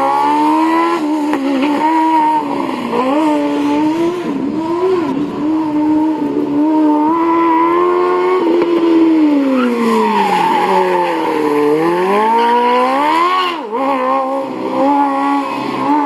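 Kawasaki Ninja motorcycle engine in a Smart Fortwo rally car, revving high and rising and falling in pitch as it accelerates and slows through a stage. The engine note sinks low about ten seconds in, then climbs steeply again.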